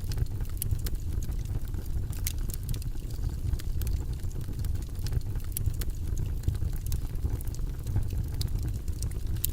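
Steady low, rumbling background noise, a continuous noise track with no tune, sprinkled with faint, irregular crackles and clicks.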